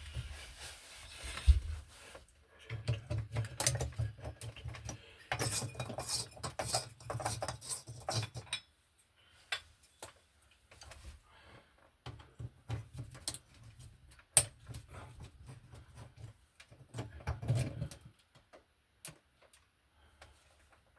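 Hand-handling noise from electrical work: scattered clicks, light metallic rattles and dull knocks, busy for the first several seconds and then sparser, with one sharp click midway.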